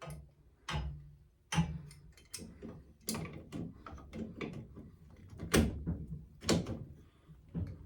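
A series of irregular sharp knocks and clunks, about a dozen over several seconds, a few of them louder than the rest.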